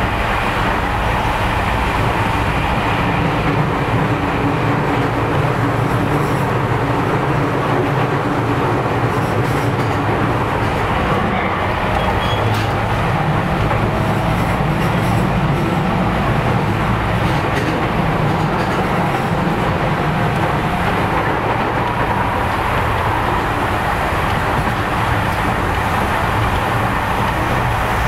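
Steady running noise of an electric commuter train heard from inside the car: a continuous rumble of wheels on rail at speed.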